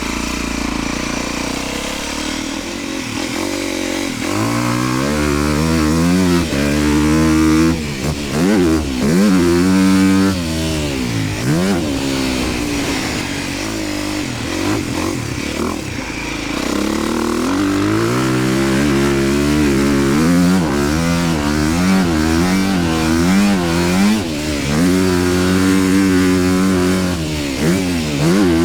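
Honda dirt bike engine being ridden on a motocross lap, its pitch climbing and dropping over and over as the throttle is opened and closed and gears change, with a lower, steadier stretch in the middle.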